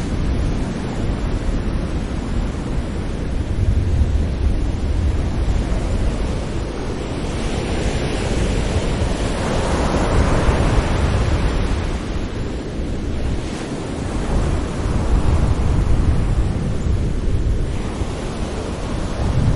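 Sea waves breaking gently on a shore, a steady wash of surf that swells and ebbs over several seconds, with one stronger swell about halfway through and a low rumble underneath.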